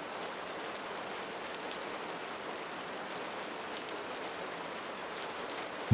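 Steady soft rain, an even hiss of rainfall with faint scattered drop ticks.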